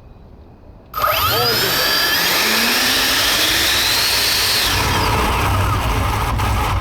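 Two 90 mm electric ducted fans on a scratch-built RC Airbus A310 spooling up suddenly to full power about a second in: a loud rushing hiss with a whine that rises in pitch over the next few seconds, then holds steady. A low rumble joins near the middle.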